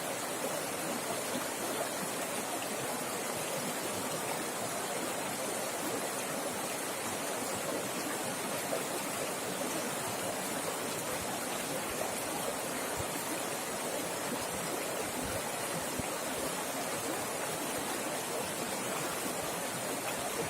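River water rushing fast over rocks: a steady, continuous rush and splash.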